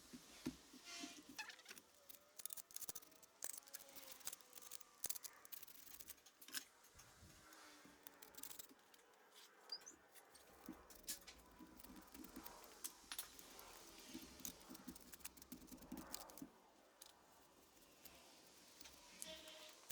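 Faint, irregular scraping and small metallic clicks of a hand gasket scraper working stuck old gasket material off the engine's water pump mounting face.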